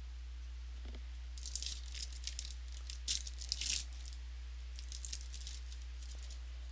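Crinkling and rustling of trading-card packaging and cards being handled, in short crackly bursts between about one and four seconds in and again briefly around five seconds, over a steady low electrical hum.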